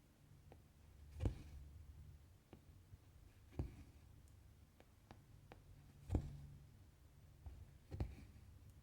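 Hand cross-stitching, faint: the needle pokes through 11-count cross-stitch fabric with four sharper taps about two seconds apart, some followed by a brief soft rasp of thread drawn through, and small ticks in between.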